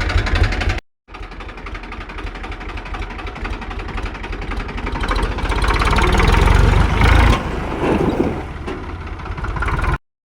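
HMT 3522 tractor's diesel engine running. It builds up steadily over several seconds, then eases back about seven seconds in. The sound drops out briefly just under a second in and cuts off abruptly near the end.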